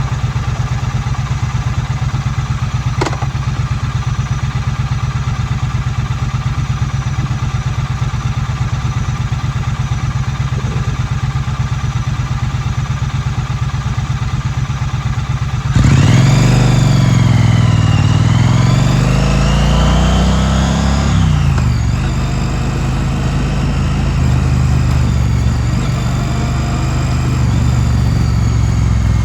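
2016 Triumph Street Twin's 900 cc parallel-twin engine idling steadily, with one sharp click about three seconds in. About halfway through it revs up as the bike pulls away, its pitch rising and dipping through the gear changes, then settles into a steady cruise.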